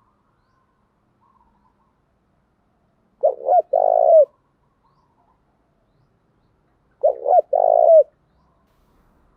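Spotted dove cooing: two phrases about four seconds apart, each of two short coos followed by a longer coo that falls away at the end.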